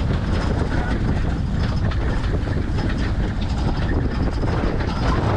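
A truck driving fast over rough ground, heard from inside the cab. A steady low rumble runs under constant rattling and knocking as the truck jolts over bumps.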